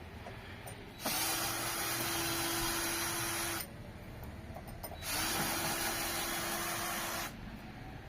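Power drill running in two bursts of about two and a half seconds each, its motor holding a steady pitch, with a short pause between them.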